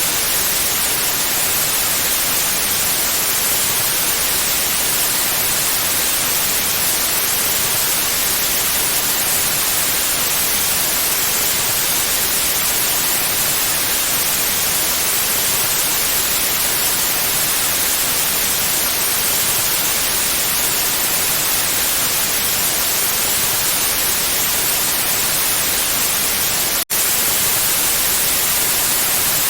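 Steady, loud white noise: an even hiss across all pitches, strongest in the highs. Near the end it drops out for a split second and comes straight back.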